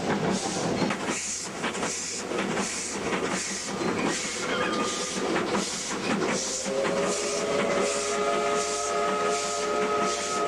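Two W class steam locomotives working a train, with exhaust chuffing at about two beats a second. About six seconds in, a steady multi-note whistle starts and holds on over the chuffing.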